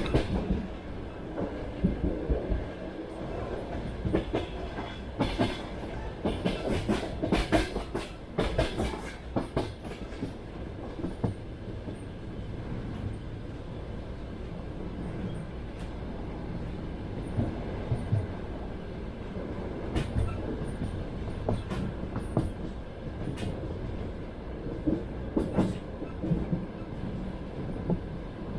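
Train running on rails, its wheels knocking over rail joints in clusters during the first ten seconds and again later on, with a steady rumble between.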